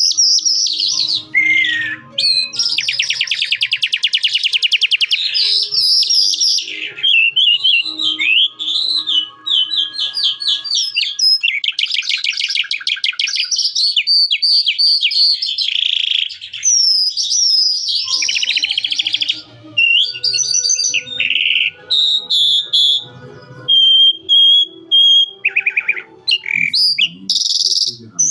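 Calandra lark singing a long, varied song of rapid buzzy trills, quick chirps and falling notes, with a run of clear whistled notes near the end.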